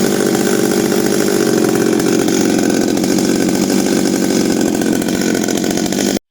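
Shindaiwa 1032S two-stroke chainsaw engine running steadily during a running check, then cutting off suddenly near the end.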